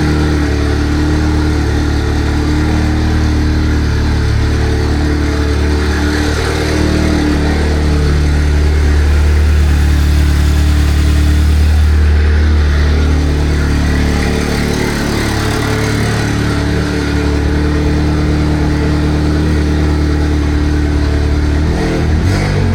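Volkswagen Golf GTI Mk7's turbocharged 2.0-litre four-cylinder idling loudly and steadily through a newly fitted large 4.5-inch downpipe, a deep, even drone. It is still at its raised cold-start idle, waiting for the revs to drop.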